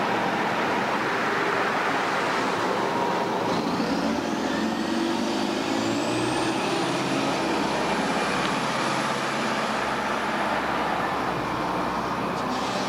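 City bus running: steady engine and road noise, with a thin high whine that rises about four seconds in and then holds level.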